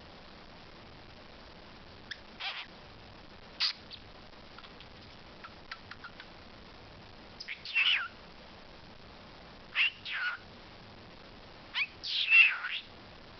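Pet talking bird giving short calls, one every couple of seconds, the last and loudest near the end.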